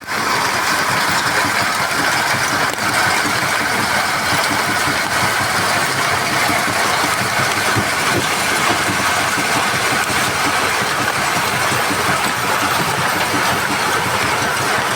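Heavy machinery running steadily, a loud, dense mechanical din with no pauses.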